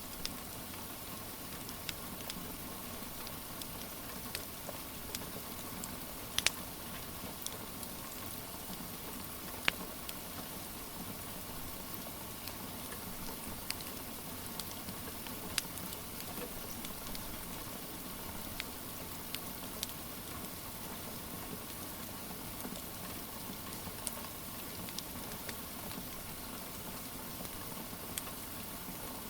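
Steady rain with a wood fire crackling over it: scattered sharp pops, the loudest about six, ten and fifteen seconds in.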